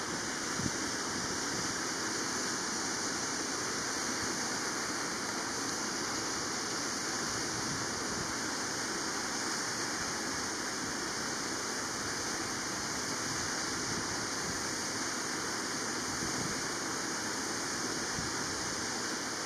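Steady, even rushing noise with a hissy top, holding level throughout with no gusts or breaks.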